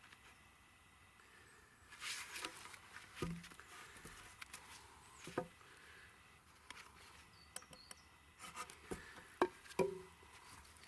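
Faint, scattered knocks and clicks of wooden pieces and tools being handled, with a brief scrape about two seconds in and a few sharper knocks near the end.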